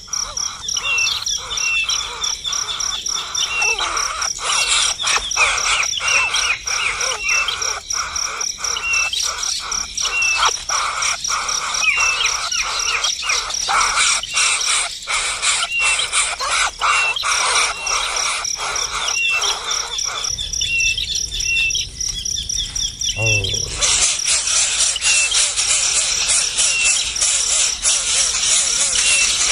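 Birds chirping: a fast run of short, repeated calls, several a second, over a steady high-pitched buzz. About 24 s in, a brighter hiss joins in.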